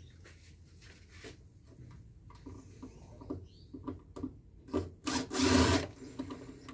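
Parts of a scrap solar inverter being handled during teardown: a run of light knocks and clicks, then a loud scrape lasting about a second near the end.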